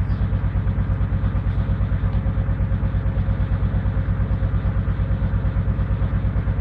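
Servis Gem M310 washing machine running on its Cottons 95 programme: a steady low hum with an even, rapid pulsing of about six to seven beats a second and a faint steady whine.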